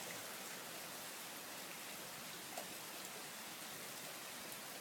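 Heavy rain pouring down, a steady even hiss, with one faint tick about two and a half seconds in.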